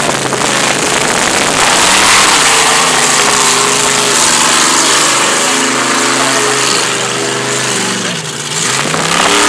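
Supercharged mud truck engine running hard at high revs, the pitch rising and falling as it is revved, easing off briefly near the end before coming back up.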